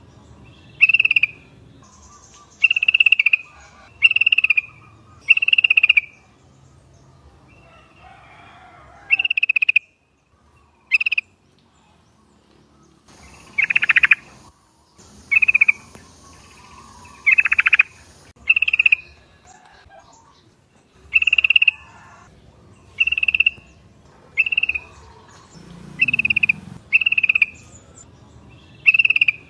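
Yellow-vented bulbuls (trucukan) calling: short, bright call notes repeated about once a second, with a brief pause about ten seconds in and a stretch of hiss behind the calls in the middle.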